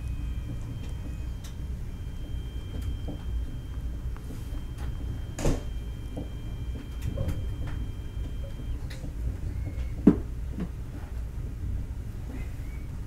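Steady low rumble of a CR200J train running at speed, heard inside the passenger coach. It is broken by a few sharp knocks, one about five and a half seconds in and the loudest about ten seconds in.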